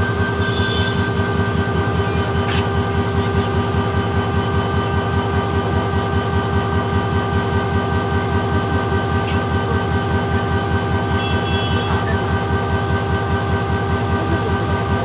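Bangladesh Railway diesel locomotive engine running steadily, with an even, fast low throb and a steady whine over it.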